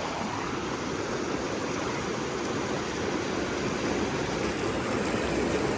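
Small mountain creek rushing steadily as it plunges down into a pool.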